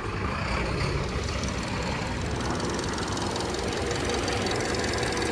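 Subaru EJ204 2.0-litre flat-four engine running evenly, its revs steady and not hunting. It gets louder and brighter right at the start and then holds steady.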